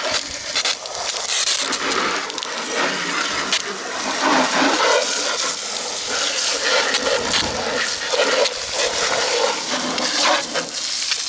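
Garden hose spraying water onto a muddy RC truck, a continuous hissing, splashing spray that shifts as the jet moves over the body and tires.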